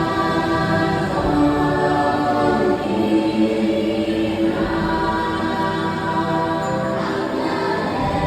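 Choir singing long, held notes over music, the voices shifting to new chords every second or two.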